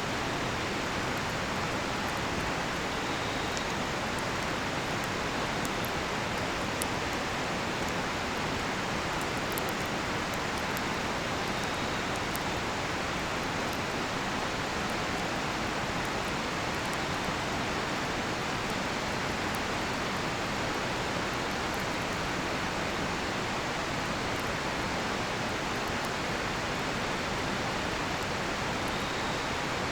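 A river rushing steadily, with faint scattered crackles and pops from a campfire of cedar wood. A few short, faint high chirps, like crickets, come and go.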